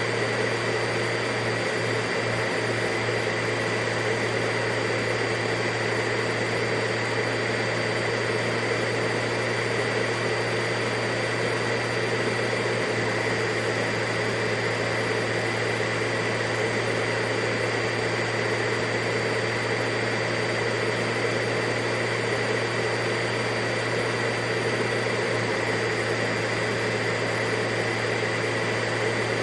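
Vacuum cleaner motor running steadily, a constant whirring roar with a low hum and a high whine held at one pitch.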